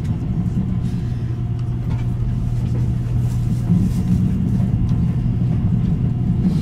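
Cabin running noise of an E353-series electric limited express train travelling at speed: a steady low rumble with a constant hum, and a few faint ticks from the running gear.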